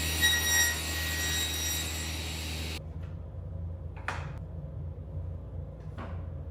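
A woodworking power machine running with a steady high whine over a low hum. About three seconds in the high-pitched noise cuts off abruptly, leaving the low hum with two brief swishes.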